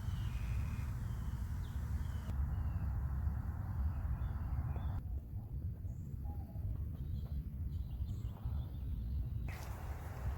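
Outdoor ambience: a few short bird chirps in the first couple of seconds over a steady low rumble.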